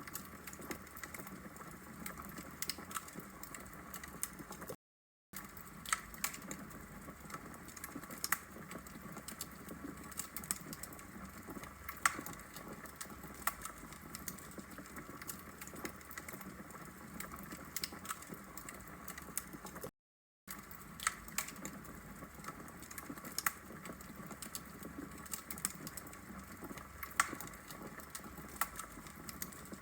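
Wood logs burning in a fireplace: a steady low hiss with frequent irregular sharp crackles and pops. The sound cuts out completely for a split second twice.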